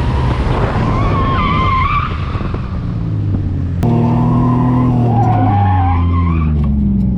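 Race car's engine and tyres during an autocross run, the tyres squealing with a wavering whine twice. About four seconds in the engine note comes in louder and then falls steadily as the car slows off the throttle.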